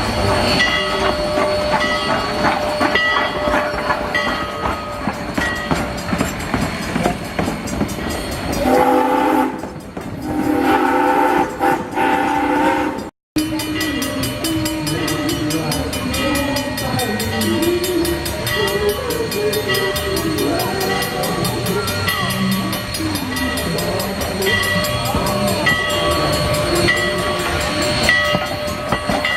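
Steam train rolling along, its wheels clicking over the rail joints in a steady rhythm. About nine seconds in, the locomotive's chime whistle sounds in two long blasts.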